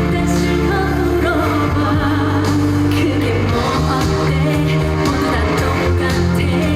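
A trot-style pop song performed live: a woman singing over a loud backing track with steady bass and drums.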